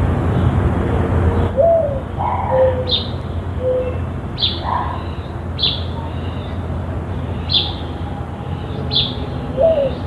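Wild birds calling: a sharp high note sliding downward, repeated five times about every second and a half, with a few short, lower notes between, over a steady low rumble.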